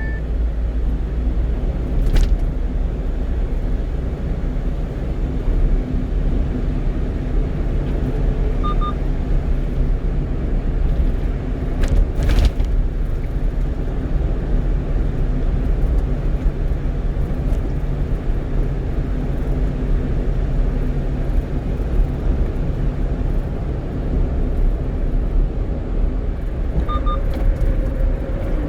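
A 1-ton truck driving at road speed, heard from the cab: a steady low rumble of engine and tyre noise, with a sharp knock about two seconds in and another near the middle.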